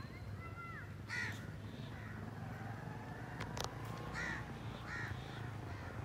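Birds calling in the tree canopy: several short calls, some clear arched whistles and some harsher, caw-like ones. A single sharp click comes about three and a half seconds in.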